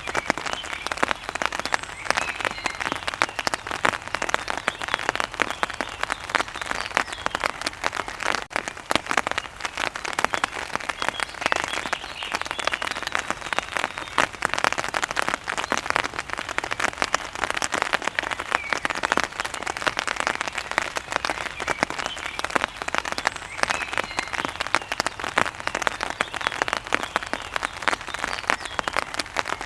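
Steady rain falling, a dense, even patter of drops striking a surface.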